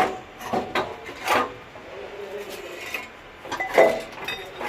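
Metal hand tools clinking and clanking against the exhaust manifold bolts and fittings of a Toyota 1GR V6 while they are being undone, a few sharp clanks with scraping and rattling between.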